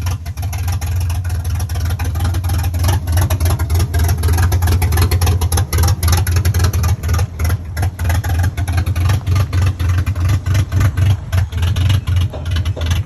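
Truck engine running as the truck is driven off-road, with a deep exhaust note that pulses rapidly and unevenly.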